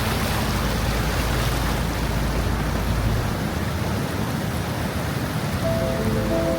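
Steady rushing water of a waterfall. Music notes come in near the end.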